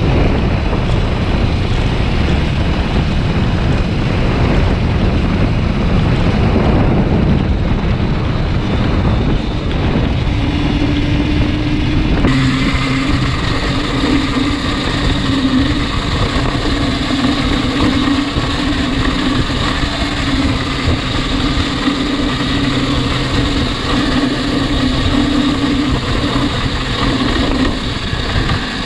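A motorcycle riding at speed, with rumbling wind noise on the microphone. About ten seconds in, a steady humming drone joins and holds to near the end.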